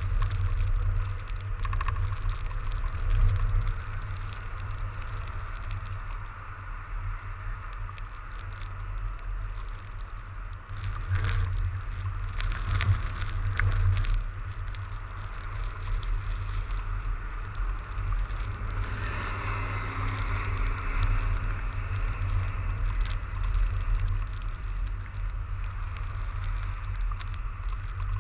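Fat bike riding through snow: steady hiss of the wide tyres on the snowy surface under a heavy rumble of wind buffeting the microphone, with a few brief crackles along the way.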